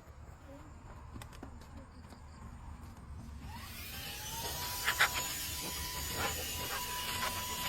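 A small car vacuum cleaner switched on about halfway through: its motor whine glides up to a steady pitch over a rush of air, then runs on. A couple of sharp clicks come about a second after it starts.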